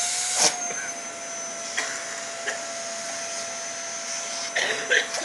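Vacuum cleaner running steadily, its motor whining on one held note, with a few short knocks and bumps as it is handled, the loudest about half a second in and near the end.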